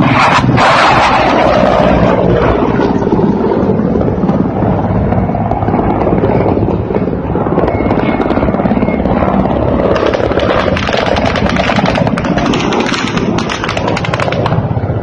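Low-flying Ka-52 attack helicopters, rotors and engines loud and steady, with a brighter, harsher rapid chopping from about ten seconds in.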